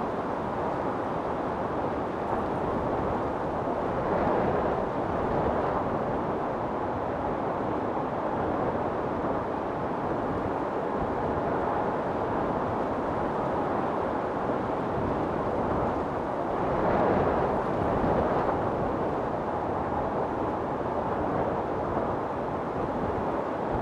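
Wind storm blowing hard and steadily, with gusts swelling up about four seconds in and again near the two-thirds mark.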